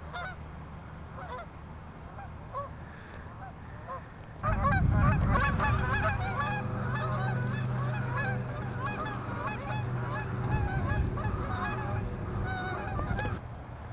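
A flock of geese honking, many calls overlapping, growing suddenly louder about four and a half seconds in over a low steady rumble.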